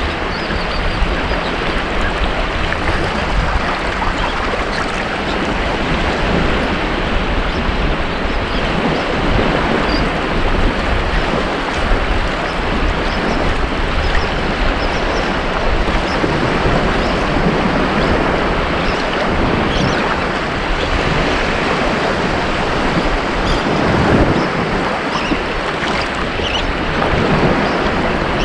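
Ocean waves breaking and washing on a beach, a continuous surf wash that swells gently, with some wind on the microphone.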